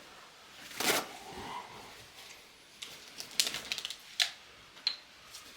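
Paper towel being handled and torn off: a rustle about a second in, then a quick run of crackling ticks past three seconds, and a couple of sharp clicks.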